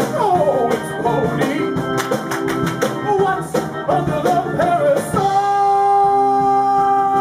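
Live band with keyboard, guitar, bass and drums playing a song with a singer, the melody moving for the first five seconds and then settling into one long held note.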